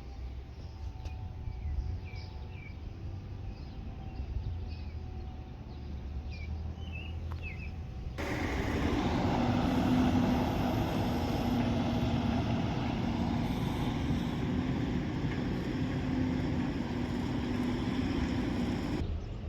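A low hum with a few birds chirping. About eight seconds in, a sudden cut brings in a louder, steady engine drone with a rushing noise, which stops abruptly just before the end.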